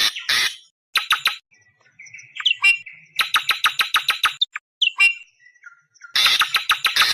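Awar-awar bird calling in bursts of rapid, harsh, screeching notes, several a second. A short, lower buzzy phrase comes about two seconds in, between the runs.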